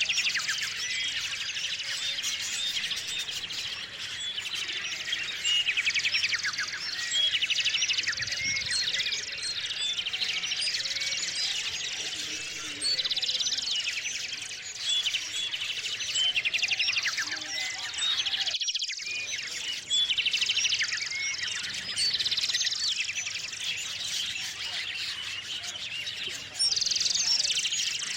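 A chorus of small songbirds chirping continuously, with loud bursts of fast trills every few seconds.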